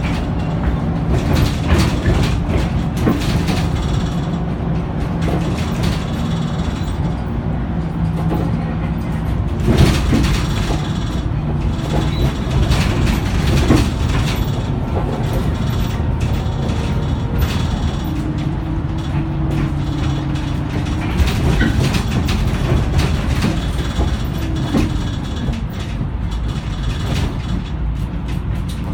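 Onboard sound of a Scania K94UB 6x2 bus running, its diesel engine humming steadily with the note shifting a few times, and interior panels and fittings rattling and clicking throughout.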